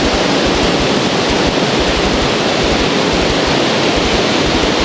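Waterfall rushing, a loud steady wash of falling water, with uneven low rumbling beneath it.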